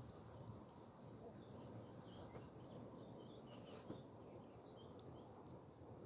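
Near silence: faint outdoor ambience with a few soft, high bird chirps in the middle.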